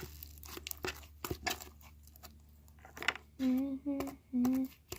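Slime being kneaded and stretched by hand: a run of wet clicks and crackles. About three seconds in, a person makes three short voiced notes at a steady pitch.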